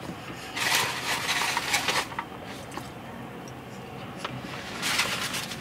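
Close-miked eating sounds: a chicken Big Mac being chewed and swallowed, in two bursts of crackly mouth and food noise, the first about half a second in and the second near the end.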